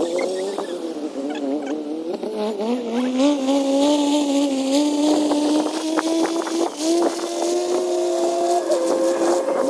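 A motor running at a high, wavering pitch that climbs slowly, with a few short clicks over it.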